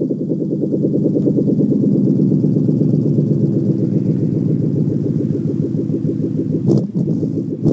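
2013 Ford Mustang GT's 5.0-litre V8 running through muffler-delete exhaust, idling steadily with a very loud, pulsing exhaust note just after starting. A brief knock about seven seconds in.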